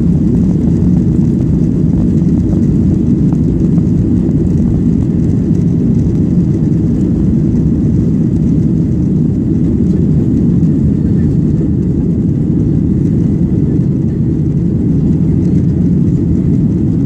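Airplane engines running with a steady low rumble that stays even throughout, without rising or falling.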